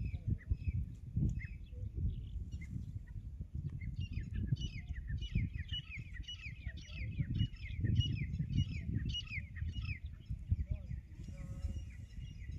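Birds chirping: a quick series of short, falling chirps, two or three a second, starting about four seconds in and stopping about two seconds before the end, with scattered chirps before, over a steady low rumble.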